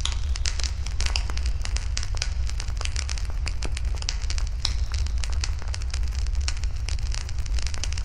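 Wood fire burning, with many irregular sharp crackles and pops from the burning wood over a steady low rumble.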